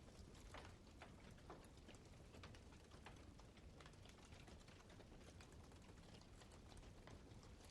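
Campfire of burning wood crackling faintly: irregular small snaps and pops, a few louder ones near the start, over a low steady hiss of the flames.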